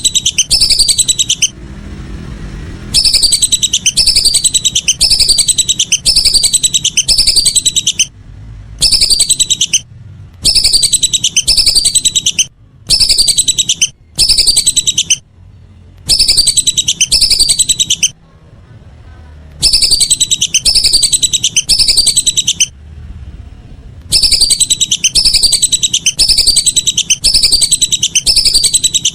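Lesser whistling ducks (belibis) calling: runs of quick, high, falling whistles in loud bursts of a second or two, broken by short pauses and repeated over and over.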